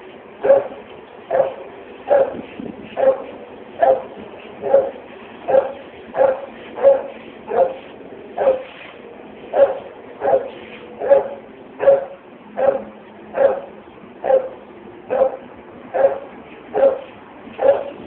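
A dog barking over and over at a steady pace, a little more than one bark a second.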